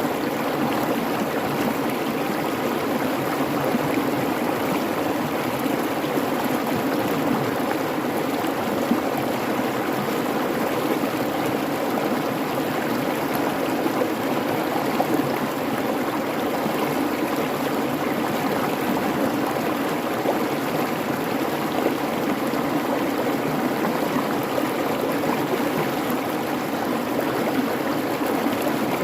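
Creek water babbling and rushing steadily over stones, an unbroken water noise.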